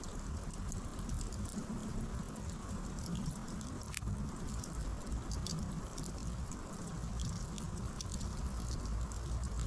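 Wood campfire crackling: scattered sharp snaps and pops over a low steady rush, with one louder snap about four seconds in.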